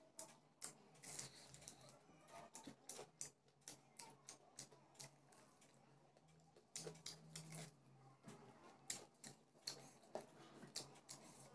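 Close eating sounds: soft chewing and mouth clicks and smacks, with fingers working rice on a plate, coming as a string of irregular short clicks a few times a second.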